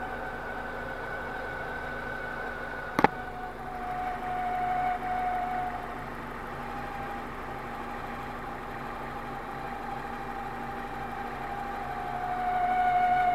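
BMW E46 engine running with a steady whining tone over it, which swells louder twice, once about four seconds in and again near the end; a single sharp click about three seconds in. The whine is the odd noise the owner is showing, its cause not known.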